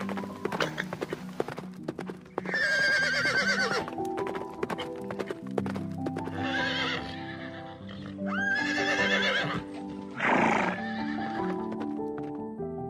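Horses whinnying three times, each call long with a trembling pitch, over steady background music. Rapid hoof clip-clops come in the first couple of seconds, and a short, loud, rough burst of noise comes about ten seconds in.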